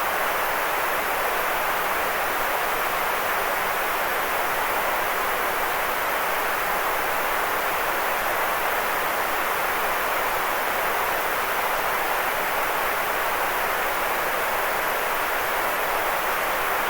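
Continuous white noise: a steady, unchanging hiss, fullest in the middle pitches and softer in the deep lows and the highest highs.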